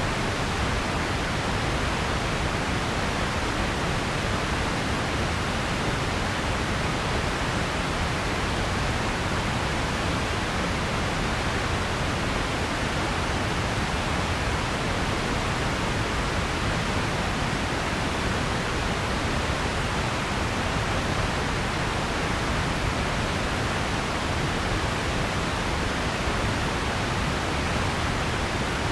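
Steady, even noise hiss that does not change, heavier in the low and middle range than at the top, like pink noise.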